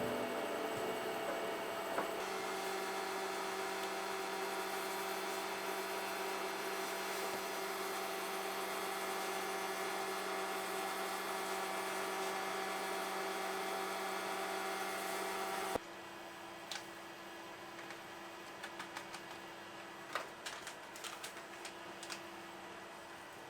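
An electric kitchen appliance motor hums steadily and cuts off suddenly about two-thirds of the way through. Light clicks and clinks of glass and utensils follow.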